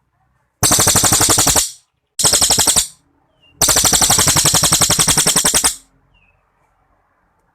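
Cililin songbird singing its long, rapid trill, the 'tembakan' that bird-song keepers prize. It comes in three bursts of fast, evenly repeated notes, about nine a second. The third burst is the longest, about two seconds, and there are short pauses between the bursts.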